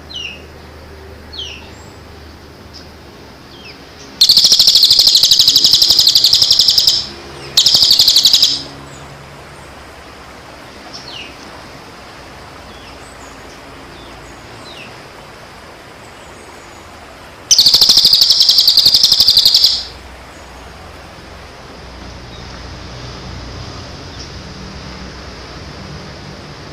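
Recorded bird sounds of the kind used as a masteran training track: three loud, harsh, very rapid buzzing trills lasting one to three seconds each. Faint short chirps sound between the trills.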